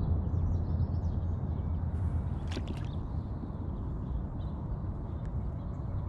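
Water swishing and lapping around an inflatable kayak as it is paddled, over a steady low rumble, with a couple of light clicks of drips or the paddle about two and a half and five seconds in.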